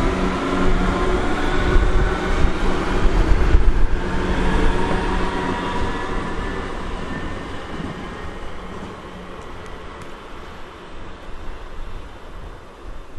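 A train passing and then receding. Its whine falls in pitch over the first couple of seconds, the rumble of the wheels is loudest about three to four seconds in, and then it all fades away.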